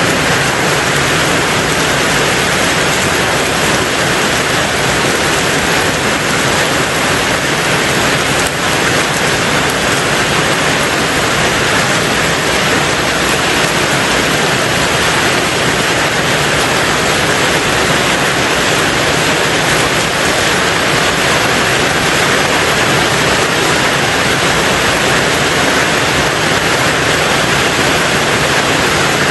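Steady rain falling on a tin roof, a dense, even hiss with no separate drops standing out.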